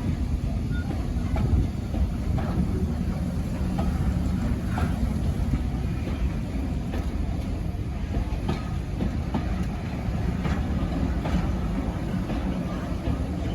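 Railway carriage running along the track: a steady low rumble with scattered light clicks from the wheels over the rails.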